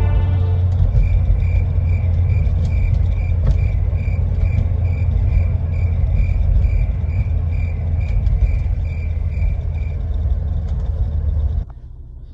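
Honda S2000 on the move, a heavy low rumble of engine and road noise. A short high beep repeats about twice a second through most of it, and the rumble cuts off abruptly near the end.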